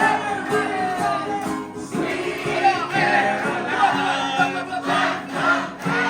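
Live bar music: a singer with instrumental backing, and a crowd of people singing along together.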